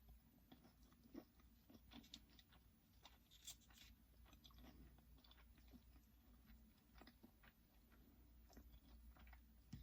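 Faint, close chewing: irregular soft mouth clicks and small crunches of someone eating fast food.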